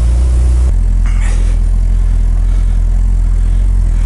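Off-road vehicle engine running while driving, a steady low rumble that shifts slightly in tone under a second in.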